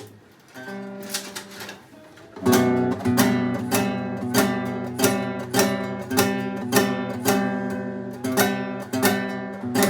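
Acoustic guitar being strummed. A few loose chord strokes come first, then from about two and a half seconds in it settles into a steady rhythm of about two to three strums a second.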